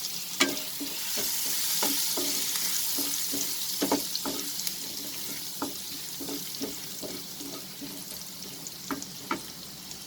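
Chopped garlic sizzling in a little oil in a karai as it is sautéd towards golden, stirred with a utensil that knocks and scrapes against the pan at irregular moments. The sizzle slowly dies down over the stretch.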